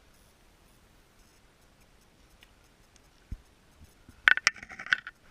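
Quiet, then a single dull thump about three seconds in, and a quick cluster of sharp clicks and taps near the end.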